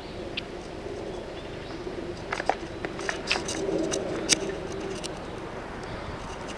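Low cooing of a dove, swelling briefly near the middle, with a handful of sharp snaps or clicks scattered between about two and four and a half seconds in.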